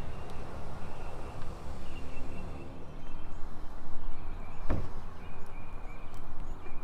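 Outdoor background noise with a low rumble, and a single sharp knock or click about two-thirds of the way through.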